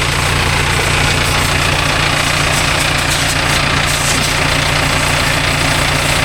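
Tractor diesel engine idling steadily, with a steady hiss over it.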